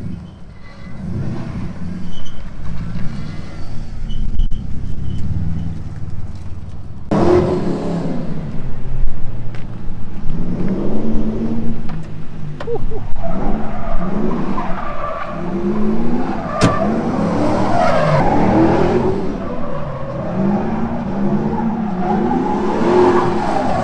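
The 5.7-litre LS1 V8 of a Mazda MX-5 drift car runs low and steady. From about seven seconds in it revs hard, rising and falling again and again, over the noise of the rear tyres skidding through a drift.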